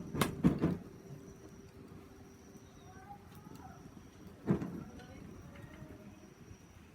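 A few sharp knocks in quick succession just after the start and one more about four and a half seconds in, typical of firewood being handled at a campfire, with faint bird chirps in between.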